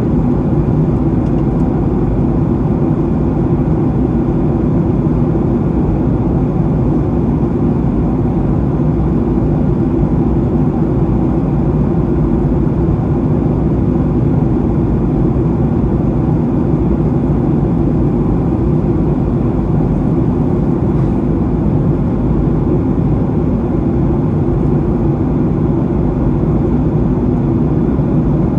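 Steady cabin noise inside a Boeing 737-800 in flight: the low drone of its CFM56-7B turbofan engines mixed with airflow rush, unchanging throughout.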